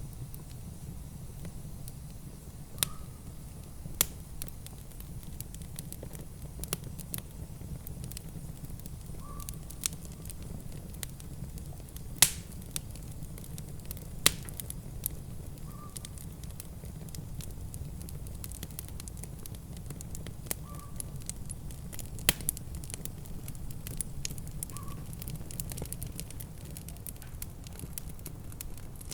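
Wood fire crackling in a fireplace: irregular sharp pops and snaps, a few of them loud, over a steady low rumble.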